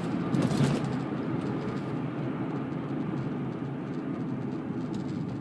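Steady low rumble of a car's running engine and cabin noise, heard from inside the vehicle, with a brief louder patch about half a second in.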